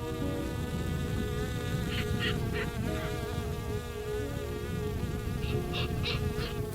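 Honeybees buzzing steadily around the hive. Short high squeaks cut through twice, a few in quick succession each time.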